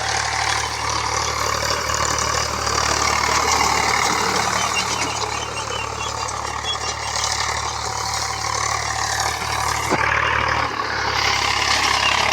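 Tractor engine running steadily, its low note shifting near the end.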